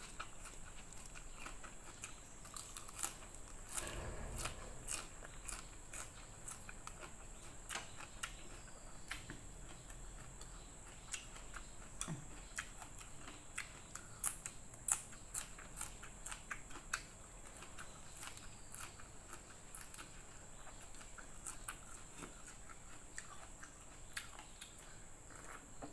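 Close-up chewing of raw leafy greens and bean sprouts: irregular crisp crunches and wet mouth clicks, scattered throughout.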